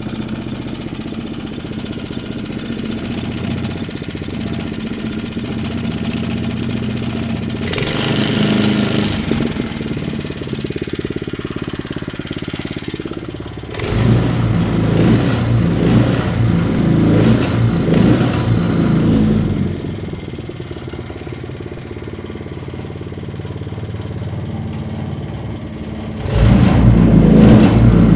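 Briggs & Stratton Intek Pro OHV 205 6.5 hp single-cylinder engine on a garden tractor running at a steady low speed, revved up briefly about eight seconds in, running louder and uneven for several seconds around the middle, and revving up again near the end.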